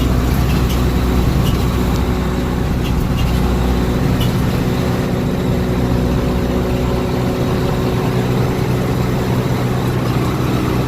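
Turbocharged Honda Civic EG hatchback cruising at a steady speed: an even engine drone with road noise, no hard revving.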